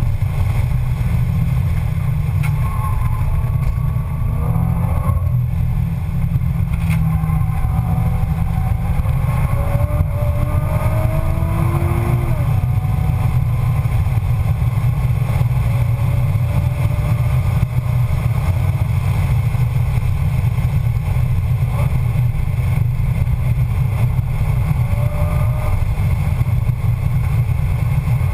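Nissan 350Z's 3.5-litre V6 engine at track speed, heard from inside the cabin: a loud, steady low drone, with the engine note climbing and dropping back several times as the car accelerates and changes gear.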